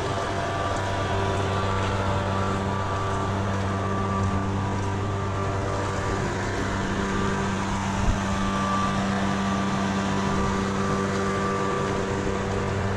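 Steady motor-like hum, unchanging in pitch, with a hiss of rain beneath it; a single short knock about eight seconds in.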